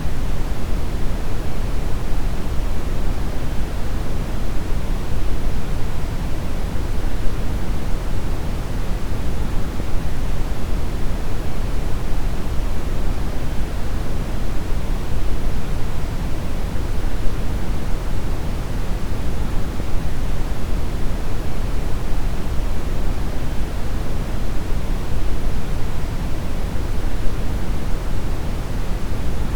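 Synthetic brown noise: a steady, deep rumbling hiss with most of its energy in the low end, unchanging throughout.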